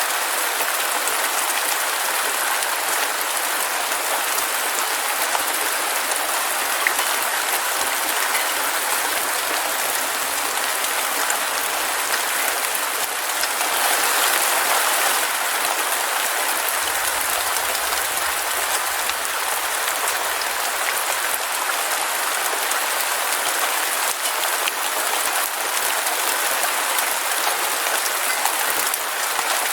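Heavy rain falling steadily: a dense hiss of countless fine drop patters, swelling briefly about halfway through.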